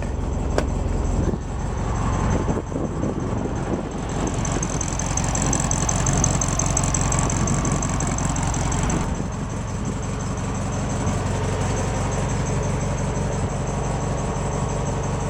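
1969 Volkswagen Karmann Ghia's air-cooled flat-four engine idling after a cold start, with one sharp click about half a second in. It runs a little louder for a few seconds in the middle.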